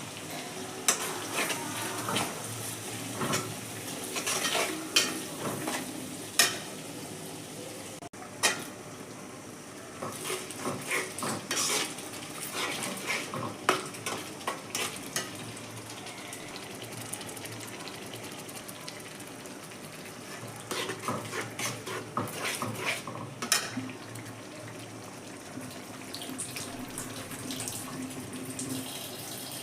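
A metal spatula stirring food in a pan, scraping and clinking against the metal in irregular bursts, over a steady sizzle of frying.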